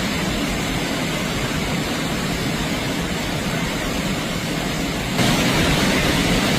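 Steady rushing noise of fast-moving floodwater in a flash-flooded river. About five seconds in it steps up louder and hissier.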